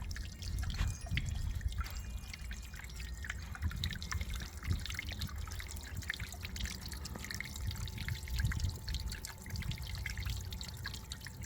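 Water trickling and splashing steadily down a small, about 4-foot-tall backyard rock waterfall, fed by a submerged solar-powered 12-volt pump.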